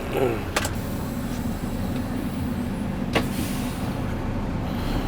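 Semi truck's diesel engine running steadily, heard from inside the cab, with two sharp clicks, one about half a second in and another about three seconds in.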